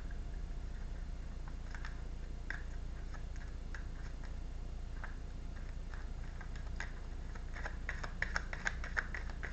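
Tarot cards being shuffled and handled: scattered soft clicks and snaps that turn into a quick flurry near the end, over a steady low hum.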